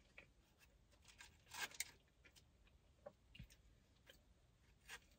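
Near silence with faint chewing and soft mouth clicks from someone eating a burger, the loudest a short crackly burst a little under two seconds in.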